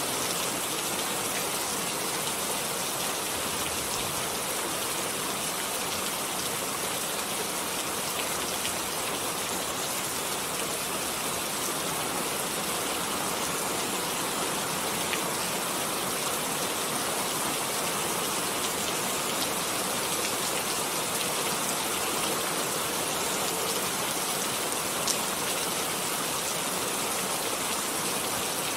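Steady rain falling, an even, unbroken hiss of drops, with one sharper drop tap near the end.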